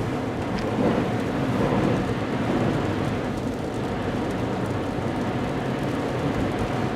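Steady road noise of a car driving on a slushy highway: tyres hissing through wet slush, with a low drone underneath.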